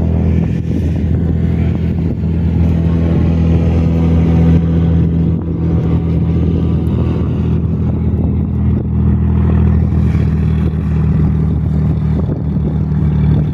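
A steady, loud low-pitched engine drone with no change in pitch, typical of machinery running on an airport apron.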